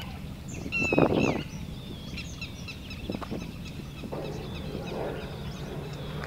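Birds chirping and calling, with short high calls that fall in pitch, over a steady low hum. A short loud rush of noise comes about a second in.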